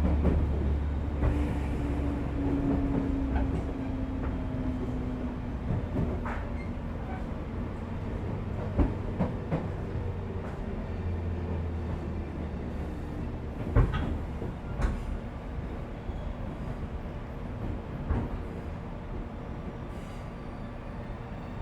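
Running sound inside a 415 series electric multiple unit's motor car, under the pantograph: a steady low rumble of motors and wheels. A tone slides down in pitch a second or so in, and scattered clicks of wheels crossing rail joints come through. It grows gradually quieter.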